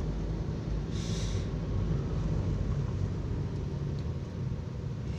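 Steady low rumble of a moving car heard from inside the cabin, engine and road noise, with a brief hiss about a second in.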